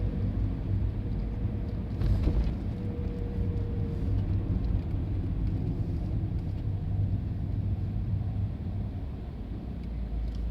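Yellow diesel railcar passing over a level crossing: a steady low engine drone and rumble of wheels on the rails, with one sharper knock about two seconds in.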